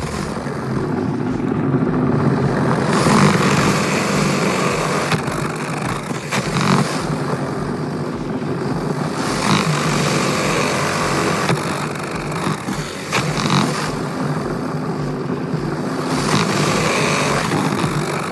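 A power drill runs steadily, spinning the rod-mounted vent-cleaning brush inside the dryer duct, with the level rising and falling as the brush works through the duct.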